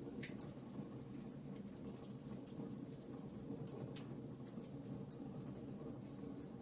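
Wood fire in a fireplace crackling: irregular small snaps and pops over a low, steady noise from the burning logs.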